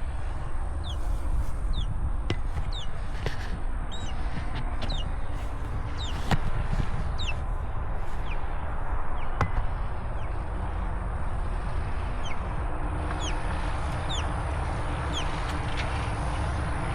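Wind rumbling on the microphone, with birds repeatedly giving short, high, falling chirps and a few sharp clicks.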